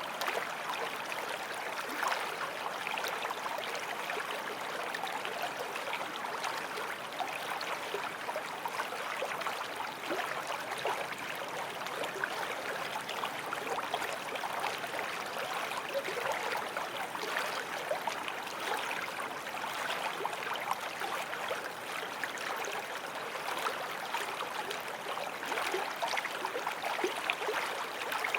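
Small forest stream flowing over stones, a steady babbling and trickling of water.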